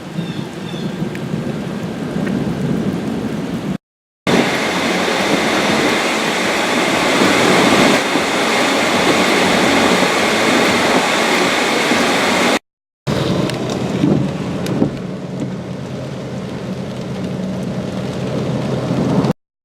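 Heavy rain pouring down in a severe thunderstorm, a steady loud hiss that cuts out briefly at three edits and is louder after the first, about four seconds in.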